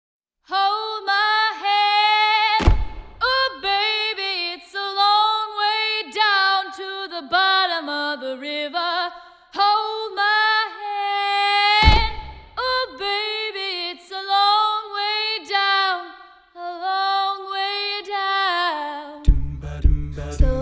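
Contemporary a cappella singing: a solo female voice sings a slow, bending melody, punctuated twice by a deep low thump. Near the end a low sung bass line and rhythmic percussion come in underneath.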